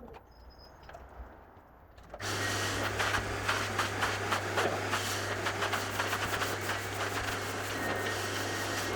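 A carpet-cleaning machine starts suddenly a little over two seconds in and runs with a steady motor hum and a dense crackling, scrubbing noise from working the carpet.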